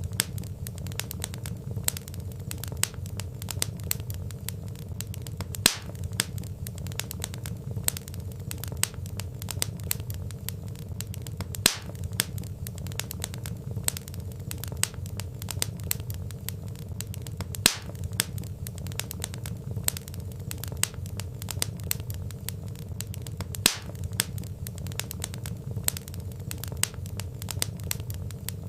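Wood fire crackling: a steady low rumble of burning logs under many small snaps and pops, with a louder pop about every six seconds in a repeating pattern.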